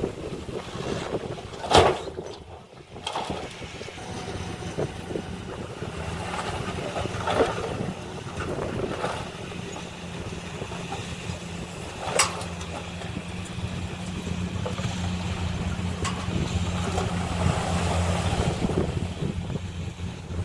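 Diesel engine of heavy earthmoving machinery running steadily, getting louder toward the end, with two sharp knocks, one about two seconds in and one about twelve seconds in.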